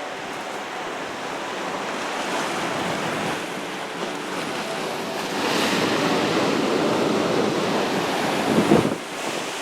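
Ocean surf washing on the shore, with wind buffeting the microphone; the wash swells louder about halfway through.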